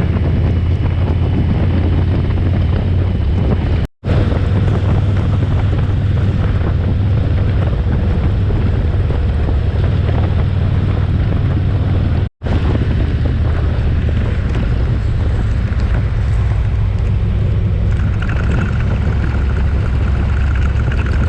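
Harley-Davidson touring motorcycle running at road speed, a steady low engine drone under heavy wind buffeting on the microphone. The sound drops out for an instant twice, about 4 and 12 seconds in.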